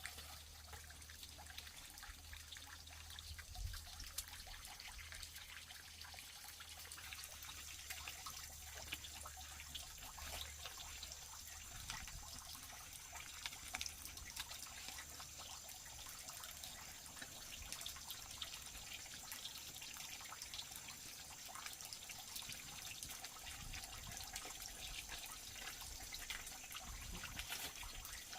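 Rolled food frying in a pan of oil, with a faint steady crackle and sizzle.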